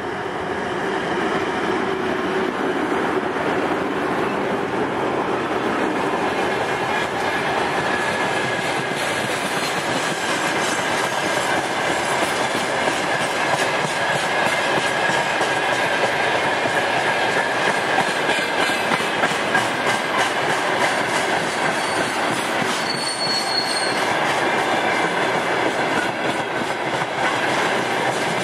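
A 2TE10M two-section diesel locomotive working under power as it passes close by at the head of a freight train. Then a long string of loaded tank cars rolls past, with steady clickety-clack from the wheels over the rail joints and a faint wheel squeal.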